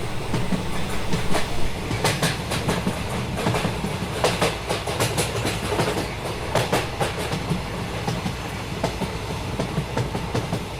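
A train running on the tracks with a steady low rumble and a quick run of wheel clicks over the rail joints that thins out after the middle.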